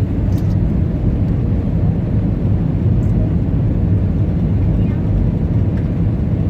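Airbus A320 cabin noise heard from inside the cabin during landing: a steady, loud low rumble of the jet engines and rushing air.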